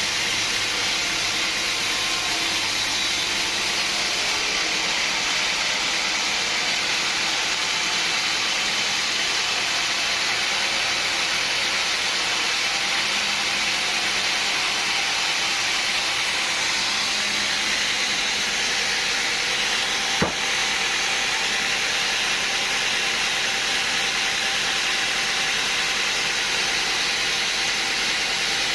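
Sawmill machinery running with a steady, even hiss-like noise, with a single sharp click about twenty seconds in.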